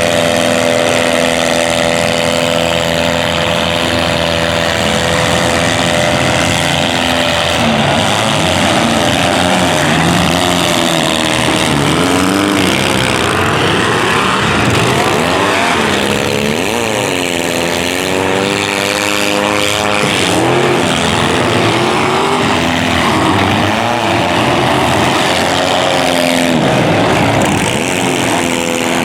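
Demolition derby car engines running loudly, steady at first, then revving up and down repeatedly.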